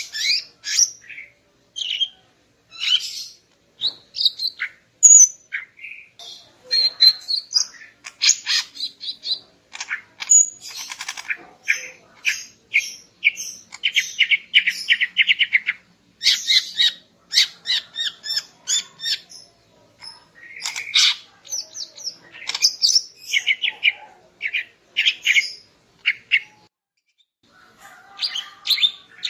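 Female cucak ijo (greater green leafbird) calling: quick runs of short high chirps, trills and whistled notes, with brief pauses and a longer pause near the end.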